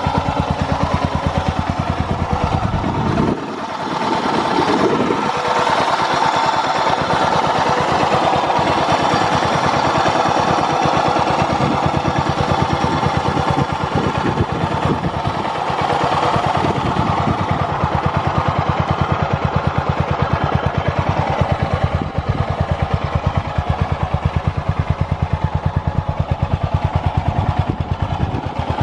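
Yamaha SRX600's single-cylinder four-stroke engine idling with an even train of exhaust pulses. It is briefly revved a few seconds in and returns to idle. It revs up cleanly with no abnormal noises.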